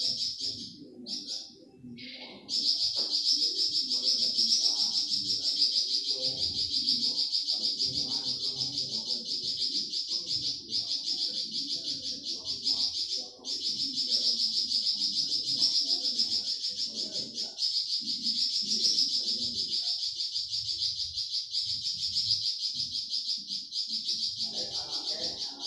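Flamboyan bird singing its rapid-fire 'tembakan' song: a long, fast string of high chattering notes, broken by short pauses near the start and about halfway through.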